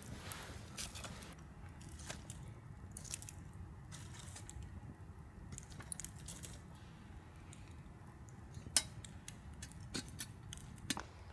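Campfire of dry twigs crackling, with irregular sharp snaps and ticks, the loudest a little before the end, over a low steady rumble.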